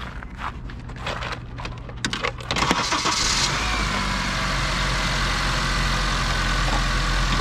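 A car engine starting, a short burst of cranking about two and a half seconds in, after a few small clicks, then settling into a steady idle. It starts now that the blown ignition fuse has been replaced.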